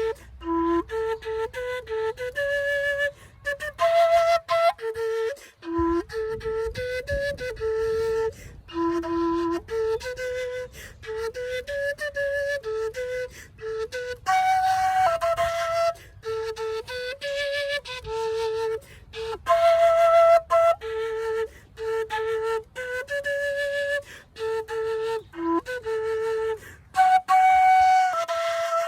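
Solo quena, the Andean notched end-blown flute, playing a slow melody in clear separate notes, with short pauses for breath between phrases.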